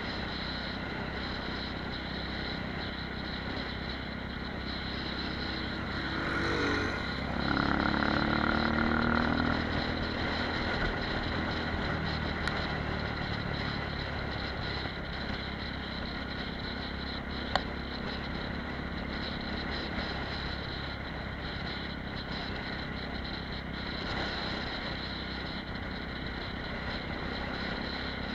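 Apollo RX250 supermoto's engine running at low road speed with wind and road noise, rising in pitch as it picks up speed about seven seconds in. A single sharp click a little past halfway.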